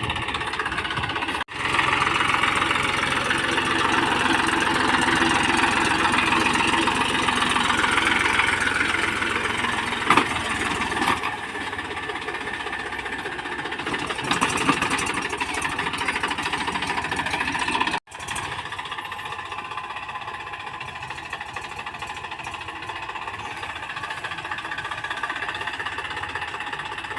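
Tractor diesel engine running steadily while sowing coriander seed. The sound cuts out suddenly for a moment twice.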